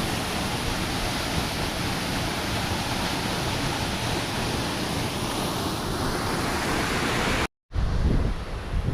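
Waterfall's steady, even rush of falling water. It cuts off abruptly near the end and gives way to gusts of wind buffeting the microphone.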